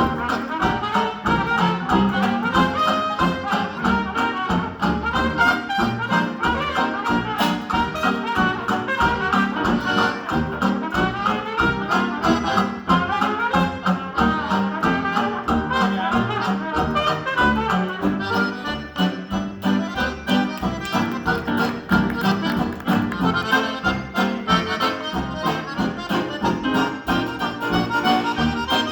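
Live dance band playing an instrumental chorus of the song: a solo break over the band's steady beat, with accordion and brass in the mix.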